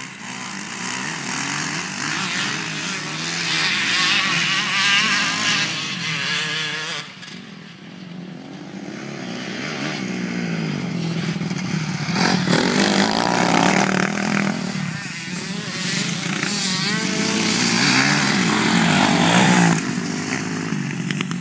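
Motocross bike engines revving up and down as they ride, the pitch rising and falling with the throttle. The sound swells and fades, dropping for a moment about seven seconds in and loudest near the end.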